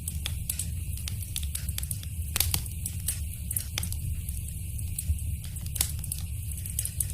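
Wood fire crackling in a fireplace: a steady low rumble with frequent small snaps and a few louder pops.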